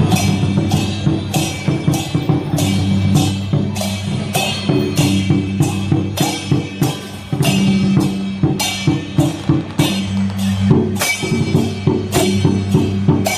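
Temple procession music: drums and cymbals beaten in a steady rhythm of about two to three strikes a second, over sustained low tones.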